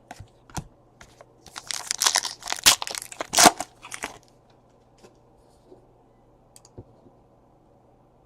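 A 2017 Panini Chronicles Baseball card pack's wrapper being torn open and crinkled, a burst of tearing and crinkling about two and a half seconds long, with a few light clicks before and after.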